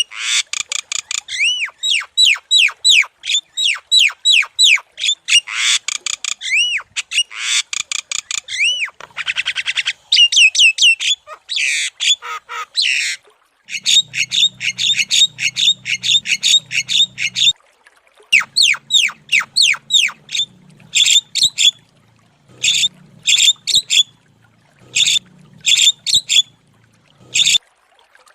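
Javan myna singing vigorously: a rapid, continuous stream of arching whistles, chirps and harsh squawks, breaking into short phrases with brief pauses from about halfway through. A faint low hum runs underneath from about halfway.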